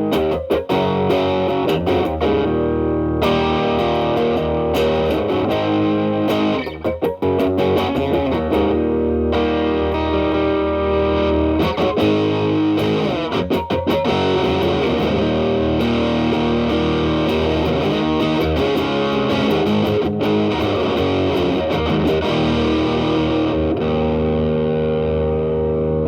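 Telecaster electric guitar played through an E.W.S. Brute Drive BD-1 distortion pedal into the clean channel of a Marshall Valvestate amp: light, crunchy overdriven chords and single notes. The pedal's gain is at 3 and the guitar's volume is rolled back to clean up the drive.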